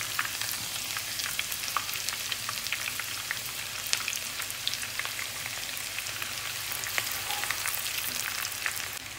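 Sliced shallots deep-frying in plenty of hot oil: a steady sizzle dense with small crackling pops.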